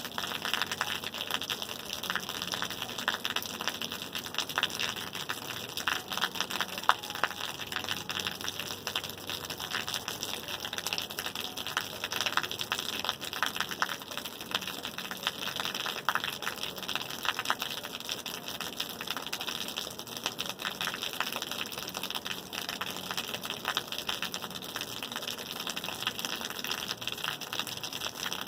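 Steady rain, a constant hiss with a dense patter of many small drop hits.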